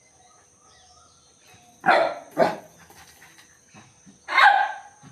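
A dog barking: two short barks about two seconds in, then a longer bark near the end.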